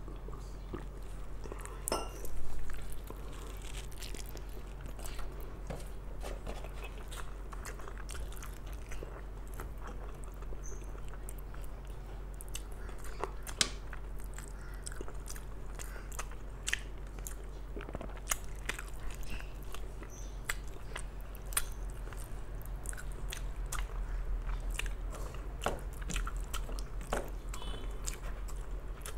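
Close-miked chewing and wet mouth smacks of a person eating rice and mutton curry by hand, with short clicks throughout. A louder knock-like sound comes about two seconds in.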